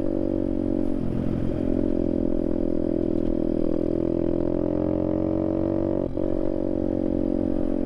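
Apollo RFZ 125cc pit bike's single-cylinder four-stroke engine running steadily in fourth gear, a loud, even engine note with a brief dip about six seconds in.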